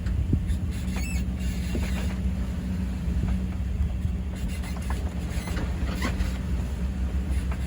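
Sailing yacht underway: a steady low rumble with a steady hum, and scattered light creaks and clicks from the boat.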